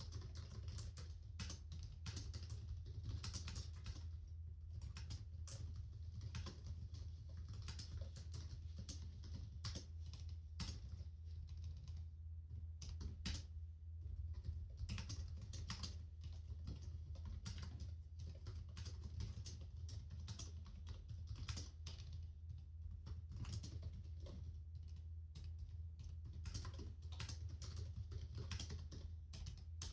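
Continuous typing on a computer keyboard: a dense, irregular patter of key clicks with no pauses, over a steady low hum.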